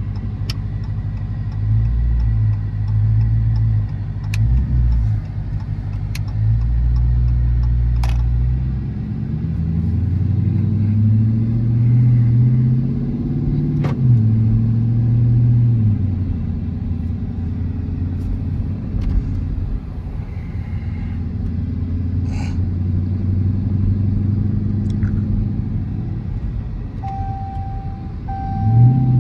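Dodge Charger R/T's 5.7-litre HEMI V8 running under way with a low drone. The revs climb for about five seconds midway, then drop back to a steady cruise. A faint repeating beep starts near the end.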